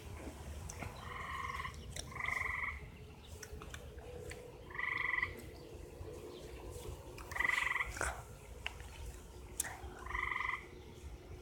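Repeated short trilling calls from an unseen animal in the trees, taken for an annoying bird: five calls of about half a second each, a few seconds apart.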